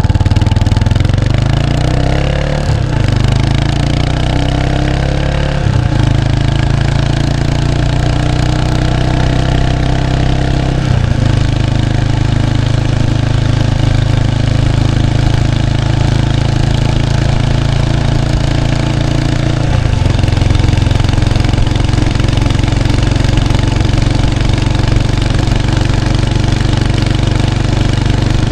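Exhaust note of a 1993 Kawasaki Estrella's 250cc air-cooled single-cylinder engine through its stock muffler, heard close at the tail. The pitch climbs in steps through the first several seconds as it pulls through the gears, with another change about a third of the way in and again about two thirds in, then holds a steady cruising note.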